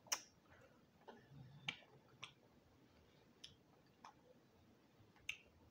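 Faint wet clicks and smacks of a mouth chewing a forkful of chitterlings close to the microphone, about six scattered clicks with the sharpest right at the start.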